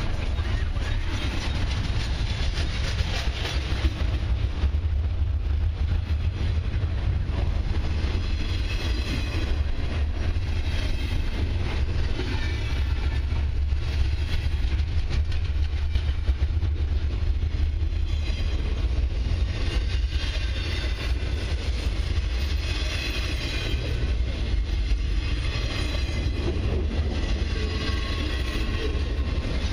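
Double-stack intermodal container well cars of a long freight train rolling past, a steady low rumble of steel wheels on rail with rhythmic clicking over rail joints. A high wheel squeal comes and goes, strongest a few seconds in, around the middle and in the last third.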